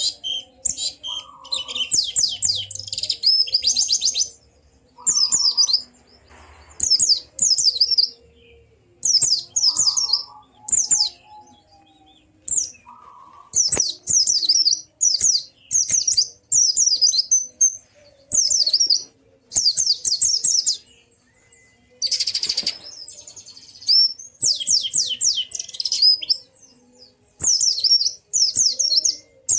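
White-eye (pleci) singing: bursts of rapid, high chirping trills a second or two long, repeated over and over with short pauses between.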